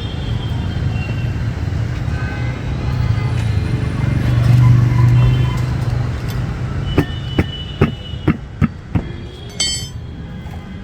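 A vehicle's low rumble swelling and fading about halfway through, then a quick run of about seven sharp metallic taps and clinks.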